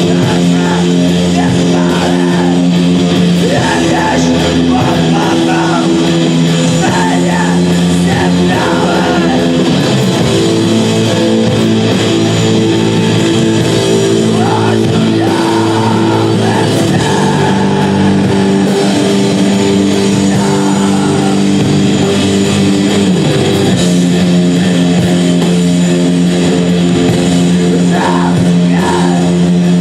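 Live rock band playing loud, with sustained distorted electric guitar chords and sung vocals; the chord changes about a third of the way in and goes back near the end.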